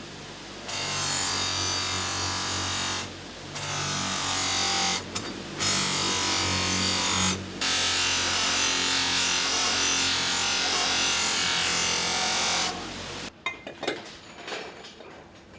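A power tool working metal: a harsh, high hissing noise in four stretches with short breaks, cutting off about thirteen seconds in, followed by a few light clicks and knocks.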